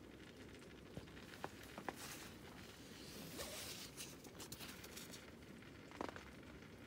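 Faint steady rain patter with a few sharp, scattered ticks or crackles. About two seconds in comes a brief rasping stretch.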